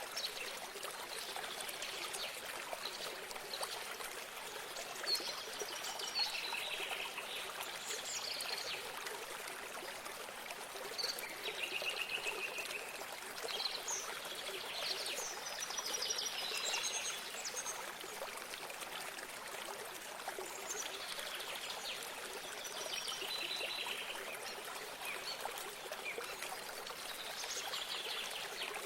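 Water trickling steadily, with songbirds singing short phrases and trills every few seconds over it.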